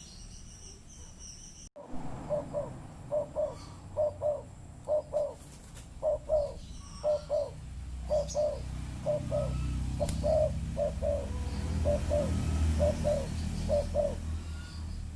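Spotted dove cooing: a run of short coo notes in quick pairs, starting about two seconds in and going on for about twelve seconds, over a low steady rumble.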